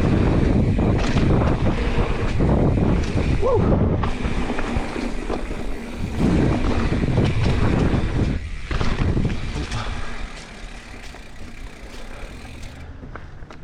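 Wind buffeting the microphone and tyres rolling over a dirt trail during a mountain-bike run, with a brief squeal about three and a half seconds in; the noise eases off after about ten seconds.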